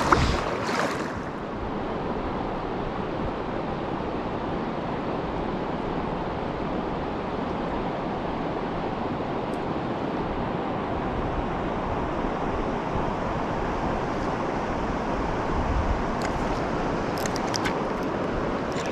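River water rushing steadily over rocks, with a few light clicks near the end.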